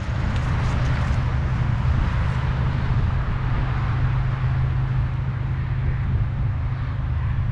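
An engine running steadily at a constant speed, a low rumble with no change in pitch.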